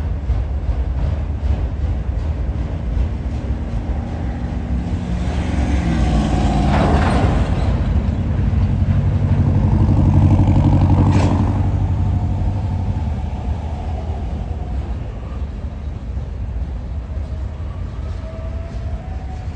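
BNSF freight train cars rolling past with a steady low rumble. In the middle a road vehicle passes close by, swelling in loudness as its pitch falls.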